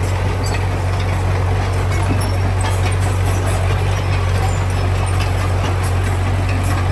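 Heavy diesel engine of earthmoving machinery running steadily: a low, even drone with faint scattered clicks over it.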